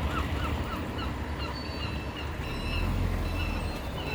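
A bird calling in a rapid series of short, clipped notes, about four a second, that stops about a second in, followed by a few scattered higher calls. A steady low rumble runs underneath.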